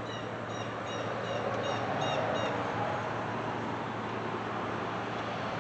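Chevy small-block V8 running on gasoline poured by hand straight into its carburetor, with no fuel line hooked up yet, a steady engine noise that swells a little about two seconds in. Short high chirps repeat a few times a second over the first two and a half seconds.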